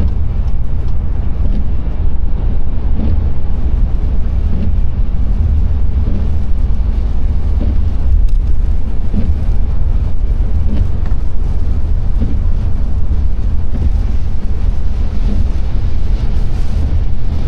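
Car driving on a wet road: a steady low rumble of engine and tyres with an even hiss over it.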